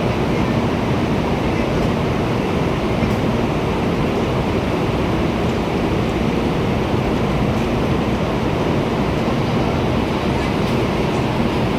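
Steady rumble and hiss of a Shinkansen train and its surroundings, with a faint steady hum and a few light clicks.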